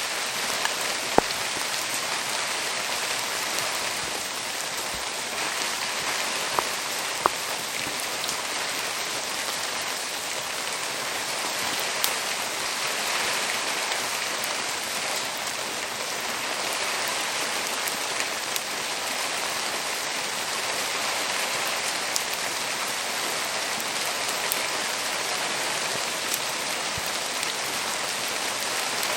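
Steady rain hiss, with a handful of sharp pops scattered through, about one or two every several seconds, typical of a wood fire crackling in the rain.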